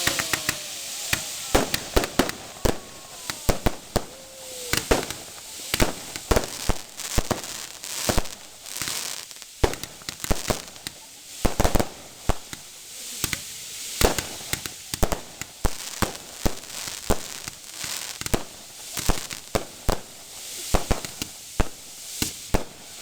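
Fireworks display: a rapid, irregular string of aerial shell bursts and bangs, several a second, with a few short whistles gliding in pitch in the first five seconds.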